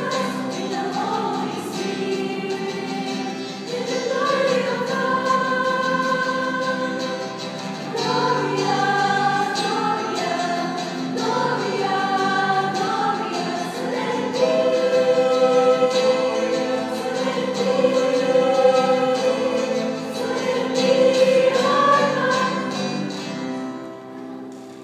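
A choir singing in several parts, holding long notes. The singing dies away near the end.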